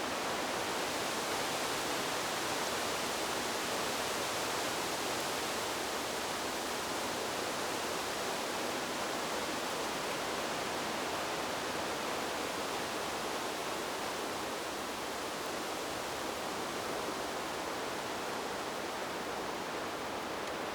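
Steady rushing noise of wind through trees, even and unbroken with no gusts or swells.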